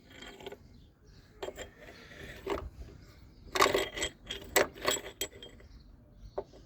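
Metal hand tools clinking and rattling against a bolt and the engine as the alternator bolt is screwed in and tightened: irregular groups of sharp metallic clinks, the loudest cluster about halfway through.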